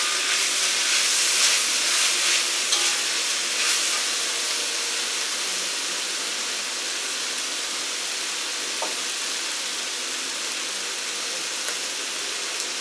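Korean potato glass noodles with vegetables sizzling in a hot wok. A few spatula knocks against the wok come as the noodles are stirred in the first few seconds, then the sizzle goes on steadily.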